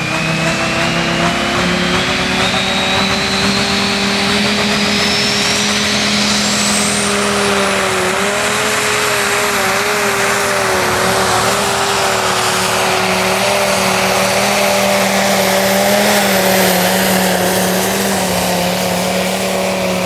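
Dingo pulling tractor's diesel engine running flat out under load through a pull, a loud steady drone. A thin high whine climbs steadily in pitch over the first several seconds.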